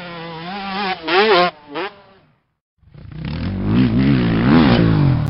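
Motorcycle engine revved in blips, its pitch rising and falling. It comes in two bursts about half a second apart; the second is deeper and fuller and cuts off abruptly.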